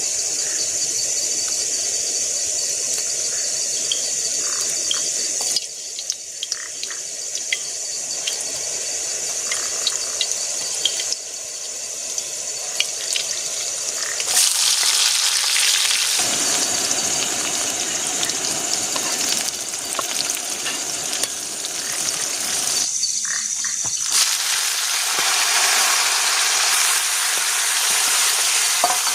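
Food sizzling as it is stir-fried in a pan, with the scrape and clink of a spatula, in several stretches that change abruptly. A steady high insect drone runs underneath.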